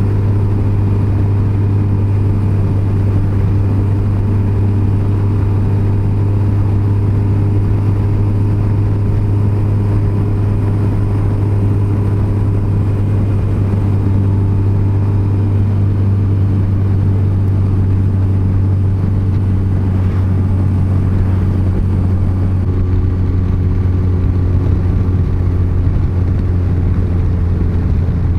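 Yamaha FJR1300's inline-four engine running at a steady highway cruise, a strong low drone. Its pitch drops a little about two-thirds of the way through, as the bike eases off.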